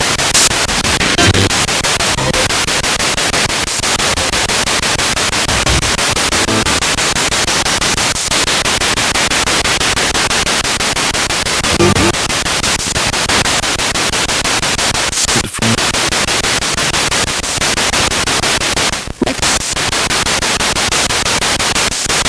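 Spirit box radio sweeping through stations: continuous loud static chopped by rapid scanning, with brief snatches of broadcast sound breaking through.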